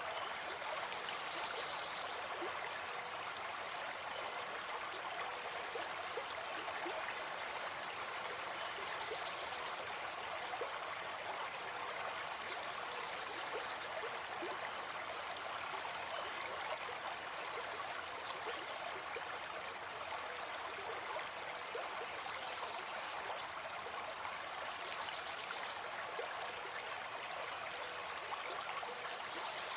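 Gentle forest stream flowing steadily, an even rush of water.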